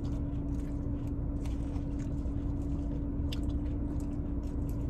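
Close-up chewing of a mouthful of salad, with small irregular crunches and the clicks of a plastic fork picking through leafy greens in a bowl, over a steady low hum.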